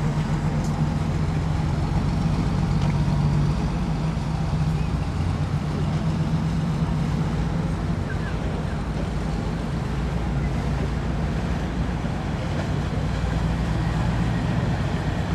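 Large vehicle engine idling steadily: a low, even drone.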